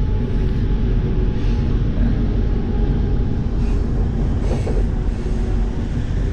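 Class 180 diesel multiple unit heard from inside the carriage while running: a steady low rumble from its underfloor diesel engines and running gear, with a few faint steady tones above it.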